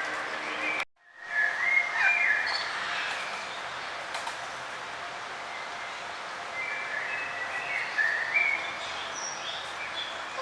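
Songbirds chirping in short calls and trills over a steady outdoor background hiss, with a brief gap about a second in where the sound drops out entirely.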